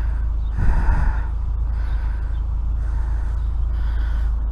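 A man breathing heavily, several breaths about a second apart, over a steady low rumble.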